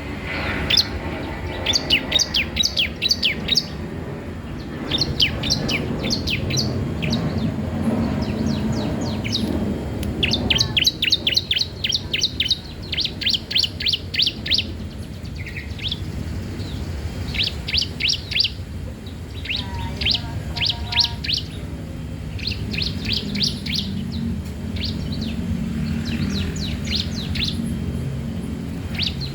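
A young cisem songbird singing busily: repeated bursts of rapid, sharp, high chirps, each burst a second or two long with short pauses between them, over a steady low background rumble.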